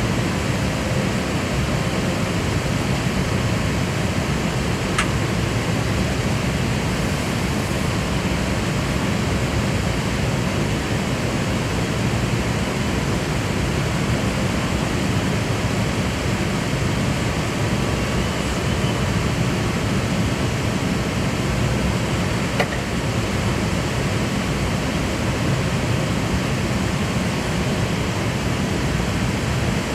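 Steady rushing noise of an Airbus A380 in flight on approach, even and unchanging in level, with two faint clicks, one about five seconds in and one a little past the middle.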